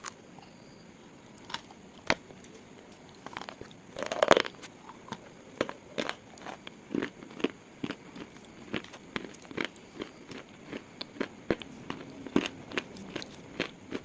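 Brittle slate pieces crunching and cracking: a run of sharp, irregular snaps, with a louder, denser crunch about four seconds in.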